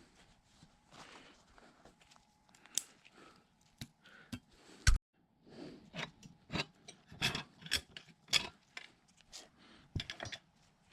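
A string of light clicks and knocks at irregular spacing, thickest in the second half.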